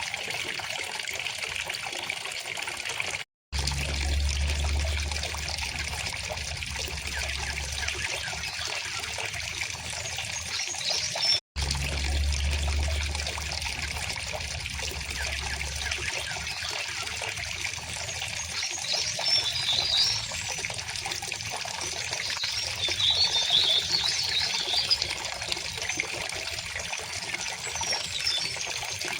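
River water flowing steadily, with scattered high bird chirps on top. The sound cuts out twice for a split second, and a low rumble follows each gap for a few seconds.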